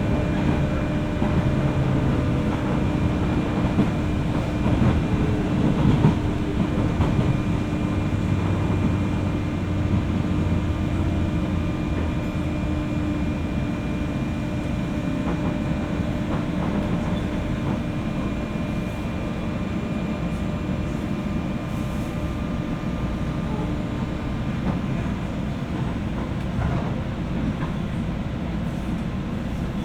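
Running noise of a JR West 201 series electric train heard inside a motor car above its armature chopper: a steady rumble from the wheels and rails, with a steady hum from the chopper control that fades out about halfway through. The train is slowing for a station stop.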